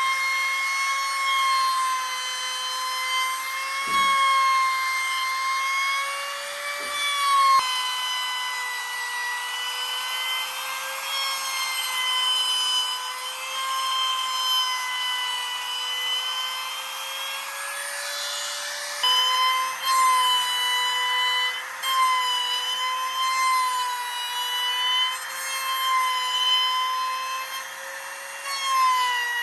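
Electric power tool motor running steadily with a high whine, its pitch dipping and recovering slightly as it works the wood, with a couple of abrupt changes in tone.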